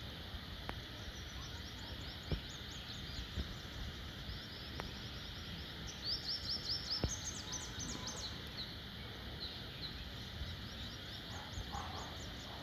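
Small birds chirping and twittering: many short high chirps, coming thickest around the middle, over a steady low rumble.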